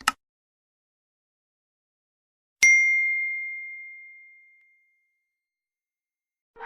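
A brief click, then about two and a half seconds in a single clear bell-like ding that rings out and fades away over about two seconds.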